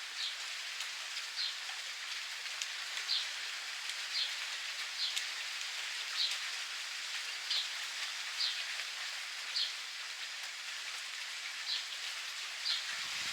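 Steady rain falling in a continuous patter, with a bird repeating a short, high chirp about once a second.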